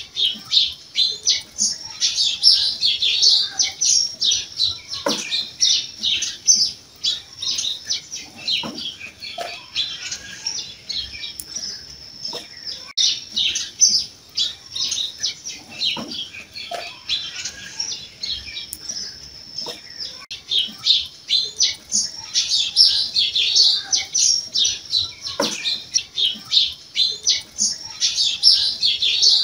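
Small birds chirping and twittering in a rapid, dense chatter, thinning out in the middle with a steady high note before getting busy again near the end.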